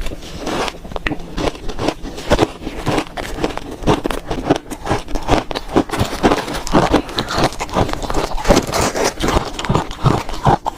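Shaved ice being bitten and chewed, eaten by the spoonful: a dense, continuous run of crisp crunches close to the microphone.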